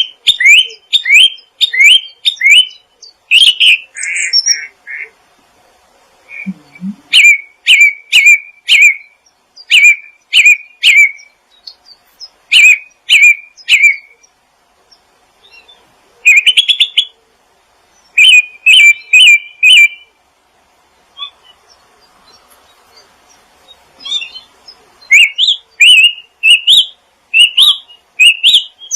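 A small songbird chirping in quick runs of short, sharp notes, the first run's notes sweeping upward, phrase after phrase with short pauses between.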